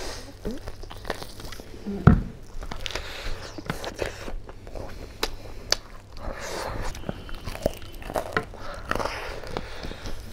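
Close-miked eating of pork curry by hand: biting and chewing pieces of pork, with wet smacking and crunching mouth noises. There is a loud thump about two seconds in.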